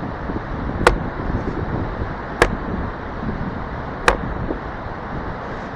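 A heavy wooden baton striking the head of an axe wedged in a knotty oak log to split it: four sharp knocks, spaced about one to one and a half seconds apart, over a steady rushing background.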